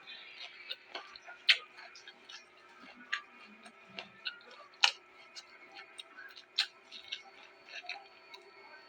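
Crunching and chewing of raw vegetables close to the microphone: irregular crisp clicks and crunches, with louder bites about a second and a half in, near five seconds and past six and a half seconds.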